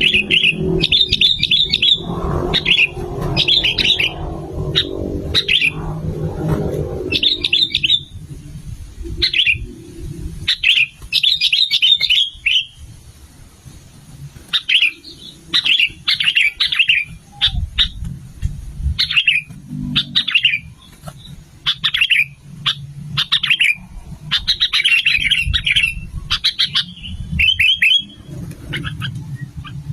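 Sooty-headed bulbul (kutilang) singing: short, bubbly, chattering phrases repeated every second or so. A low rumble runs under the first several seconds.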